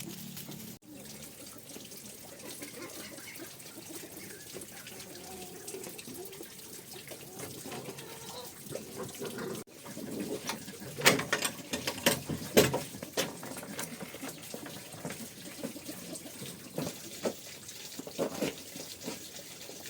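Water running steadily, with a cluster of sharp knocks and clatters about halfway through and a few more near the end.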